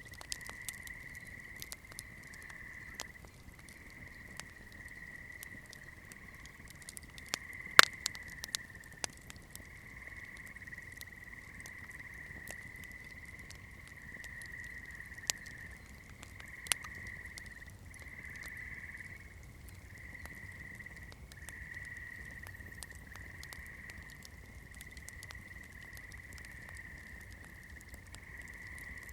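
Campfire wood crackling with scattered sharp pops, one much louder crack about eight seconds in, over a steady high-pitched chorus of calling animals.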